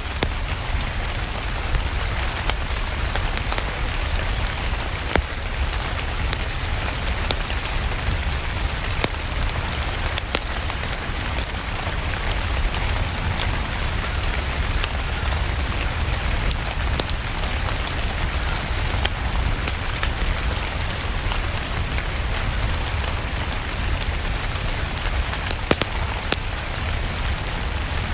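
Steady rain with a low rumble underneath, and sharp crackles of a wood fire in a fireplace scattered irregularly throughout.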